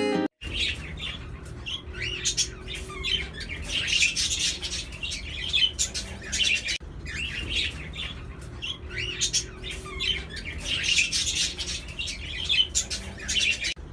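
Small pet birds chirping and chattering, many quick overlapping chirps, with a brief break about halfway.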